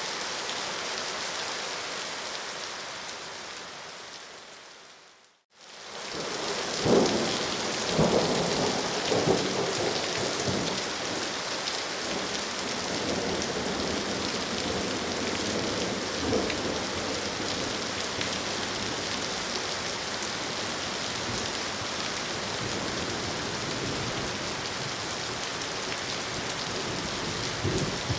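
Steady rain that fades out to a brief silence about five seconds in, then fades back in with several low rumbles of thunder over the rain.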